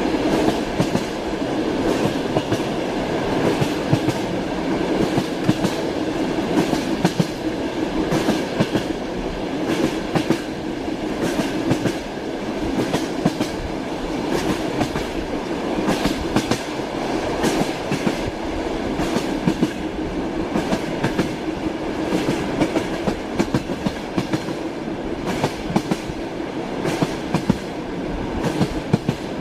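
Moving train's wheels running on the rails: a steady rumble with frequent clicks as the wheels pass over rail joints.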